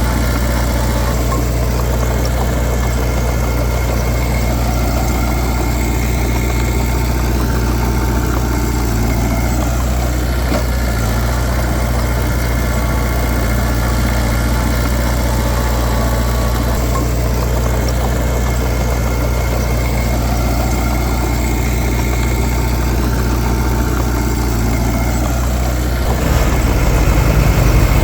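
Heavy diesel earthmoving machine engine running steadily at a constant pitch, getting louder and working harder near the end.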